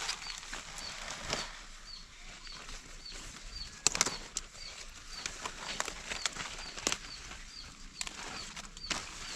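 A bird chirping a short high note about twice a second, among scattered sharp snaps and rustling.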